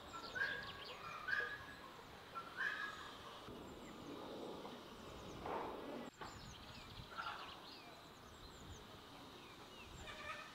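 Outdoor birdsong: small birds chirping high and thin, with three louder short calls in the first three seconds and a few lower calls around the middle.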